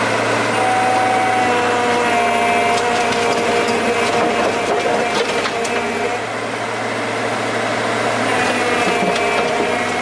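A motor-driven power tool running steadily under load while cutting or shaping wood, its pitch dipping and recovering slightly as it works.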